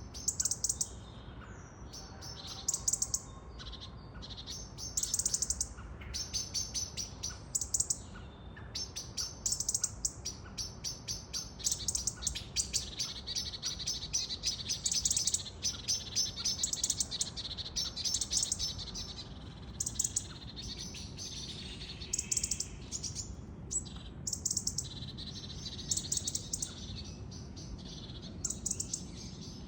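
Several small birds chirping and twittering in quick series of short high notes, one series after another with brief gaps, over a faint low background hum.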